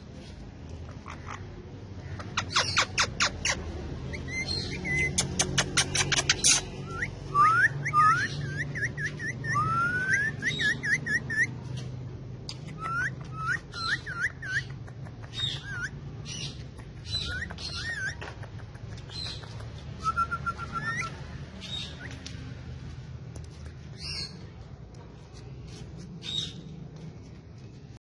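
Indian ringneck parrot calling and whistling: a fast run of sharp calls a few seconds in, then a string of short rising and falling whistles, with shrill squawks scattered throughout.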